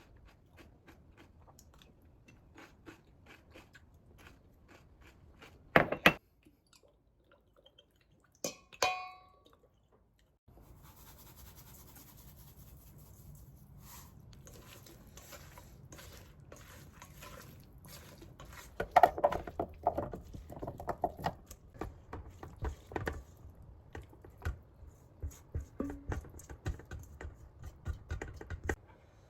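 Close-up eating sounds: chewing, with cutlery clicking and knocking against a dish. A short ringing clink comes about nine seconds in, and a run of louder knocks follows around twenty seconds in.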